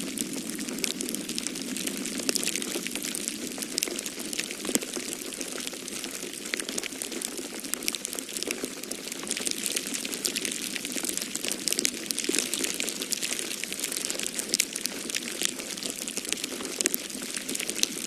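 Wood fire in a fireplace crackling, with many small irregular pops and snaps over a steady low rushing noise.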